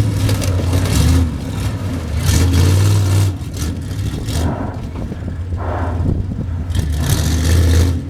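Monster truck engine revving hard under throttle as the truck pulls its trailer over cars. It eases off a little in the middle and builds again near the end.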